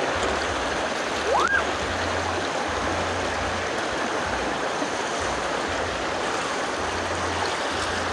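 River water flowing steadily over rocks, an even rushing. About a second and a half in, a brief rising squeal.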